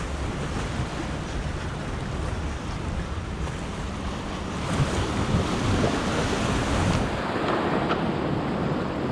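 Ocean surf breaking and washing up the beach, with wind buffeting the microphone; the wash grows louder about halfway through.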